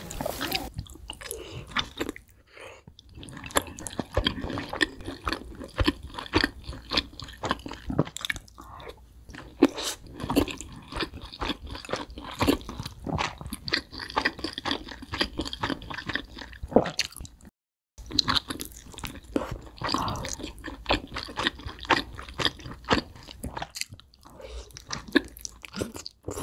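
Close-up mukbang chewing and crunching of fried chicken wings, with irregular crackly bites and wet mouth sounds. About two-thirds of the way through, the sound cuts out completely for a moment.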